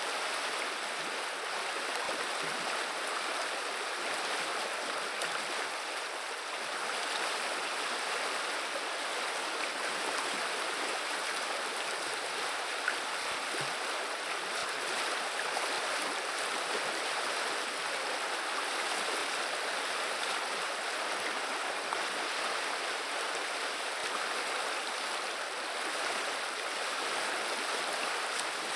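Flowing river water rushing and babbling steadily, an even noise of moving water.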